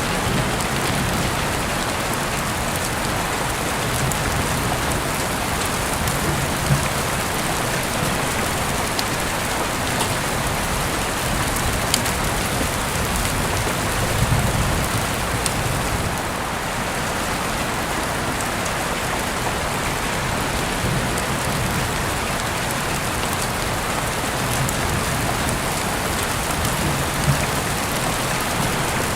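Steady rain falling, an even hiss at a constant level, with a few sharp clicks standing out now and then.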